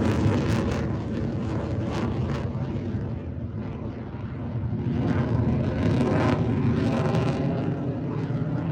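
Jet aircraft engine rumble, easing a little midway and swelling again about five seconds in.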